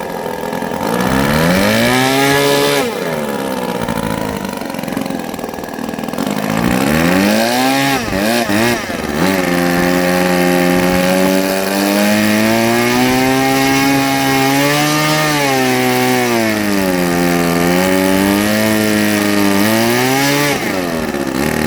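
Saito FA-90TS twin-cylinder four-stroke glow model engine on a test run, throttled up and down. The revs climb about a second in, drop back near three seconds, rise again around eight seconds and hold high with small dips, then fall away near the end. It runs cleanly through the throttle changes with its low-speed needle freshly tuned.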